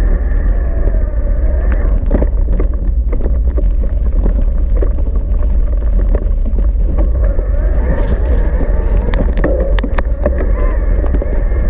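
Cube Reaction Pro 400 electric mountain bike ridden along a trail: heavy wind rumble on the camera microphone, a faint steady whine, and scattered clicks and rattles from bumps, busiest in the second half.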